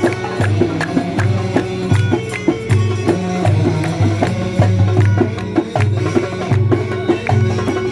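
Port Said simsimiyya band playing live: plucked simsimiyya lyre over a steady drum beat, with a heavy bass note on each beat.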